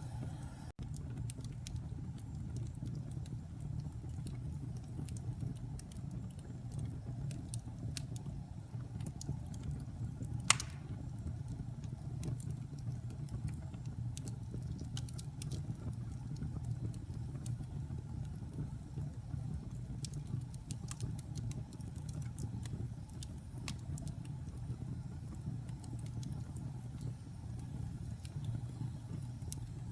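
Wood fire burning in a fireplace: a steady low rumble of flames with scattered small crackles, and one loud pop about a third of the way in.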